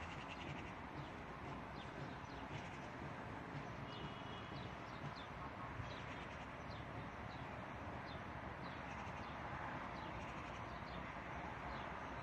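Small birds chirping: many short, high, falling notes scattered throughout, over a steady background hiss.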